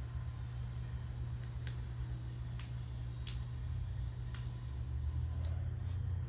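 Gaffer's tape being handled and stuck down onto a car windshield: scattered light crackles and ticks over a steady low hum.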